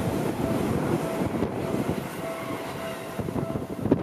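Red-and-cream electric commuter train passing close by, its wheels rumbling and clattering on the rails, with a faint on-and-off whine; the noise slowly fades as the cars go by.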